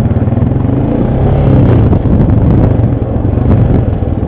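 ATV engine running steadily at speed, getting a little louder about a second in, with scattered knocks and rattles from the machine on the trail.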